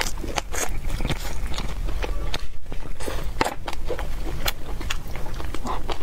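Close-miked chewing of spicy boneless chicken feet with pickled cucumber: wet, crunchy bites and irregular mouth clicks.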